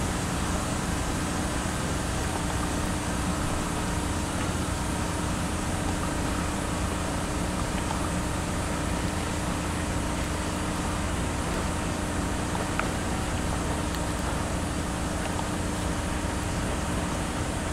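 Car engine idling steadily while the iced-over car thaws, an even, unbroken hum with a faint steady tone.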